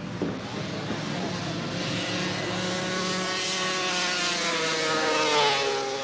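Racing snowmobile's two-stroke engine at full throttle, growing louder as it approaches, then dropping in pitch as it passes by about five seconds in.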